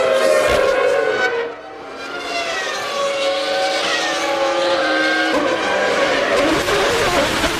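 Formula One cars' high-revving racing engines running at speed, with several engine notes rising and falling in pitch through gear changes and as cars pass. The sound drops briefly about one and a half seconds in and shifts suddenly about five seconds in.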